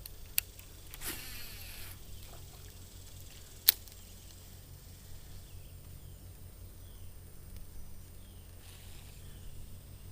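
Two sharp knocks about three seconds apart, with a short whoosh between them, over a low steady rumble; faint bird chirps later on.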